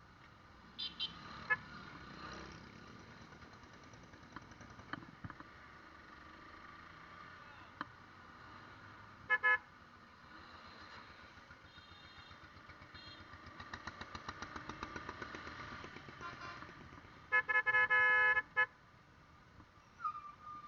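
Riding on a motorcycle in highway traffic: engine and road noise, with vehicle horns honking in short blasts about a second in and about nine seconds in. The engine note pulses faster for a few seconds past the middle, and a loud, longer horn blast sounds for about a second near the end.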